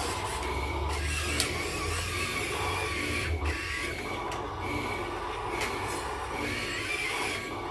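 Machinery running steadily, with a low hum, a wavering high-pitched squeal and a few sharp clicks.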